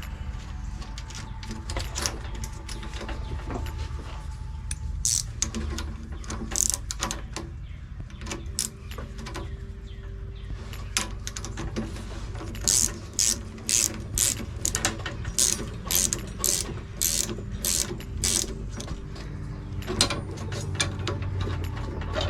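Ratchet-like clicking of hand work on a push mower's handlebar cable fitting, over a steady low hum. In the second half it becomes a run of about a dozen sharp clicks, roughly two a second.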